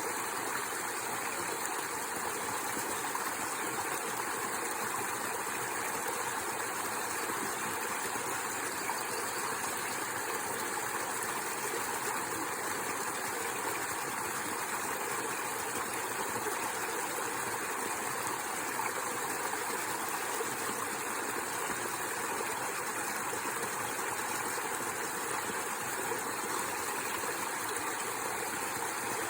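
Mountain waterfall, water pouring and rushing in a steady, even roar.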